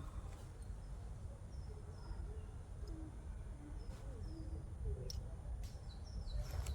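Birds calling: many short, high chirps with falling pitch, with some lower wavering notes, over a steady low rumble. A few sharp clicks near the end.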